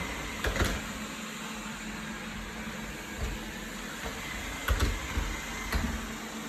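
Wyze robot vacuum running: a steady, pretty loud whir of its suction motor and brushes with a low hum. A few short knocks are heard about half a second in, near the five-second mark and shortly after.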